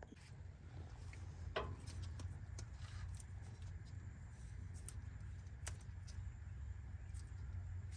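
Faint, scattered clicks and light metal handling from hand-tool work, over a low steady rumble.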